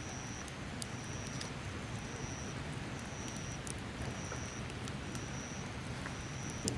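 An insect calling in short, high, even buzzes, about one a second, over a steady rushing background with scattered sharp crackles.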